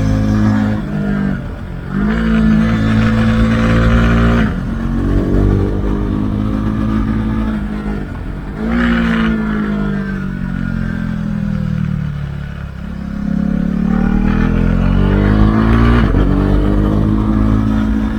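Husqvarna Svartpilen 401's single-cylinder engine through an Akrapovic exhaust with the dB-killer removed, ridden on the road. It holds revs, drops off about four seconds in and winds down in pitch, blips once near the middle as it shifts down, then revs up again before another shift near the end.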